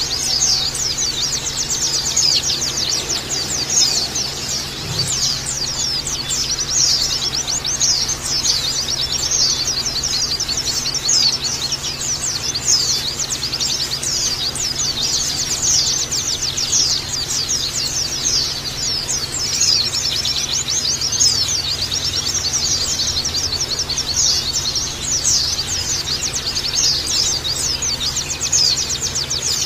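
A flock of white-eyes (pleci) twittering all together in a dense, continuous chorus of many quick, high, falling notes.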